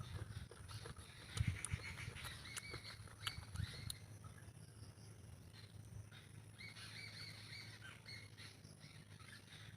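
Faint bird calls: short chirps in two bouts, over a low steady hum.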